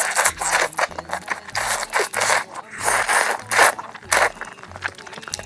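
Close-miked eating noises: a run of short, rough, scratchy bursts, about one or two a second.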